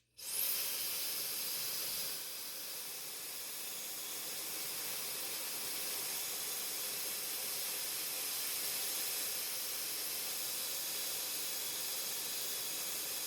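TechMeri Ultra Fast hair dryer switched on: it spins up with a brief rising whine, then blows with a steady hiss of air.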